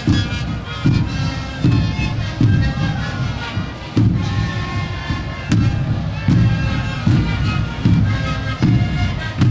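Sikuri ensemble playing: many siku panpipes sounding a breathy melody together over a steady beat of large bombo drums, a stroke a little more than once a second.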